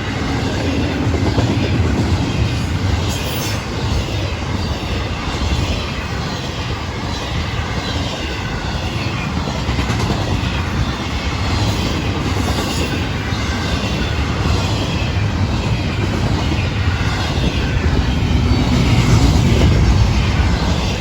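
Florida East Coast Railway intermodal freight cars rolling past at speed, a continuous rumble and wheel noise on the rails that swells louder near the end.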